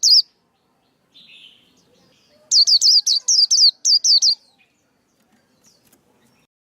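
Male white-eye singing: the tail of one phrase at the very start, then about two and a half seconds in a quick run of about ten high, sliding chirps lasting about two seconds.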